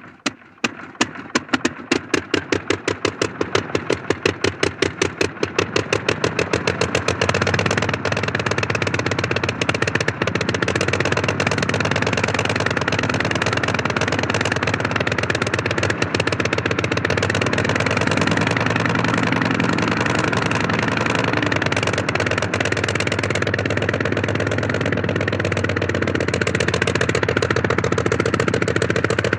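Blériot monoplane's propeller engine just after starting: separate firing beats that come faster and closer together over the first seven seconds or so, then settling into a steady idle.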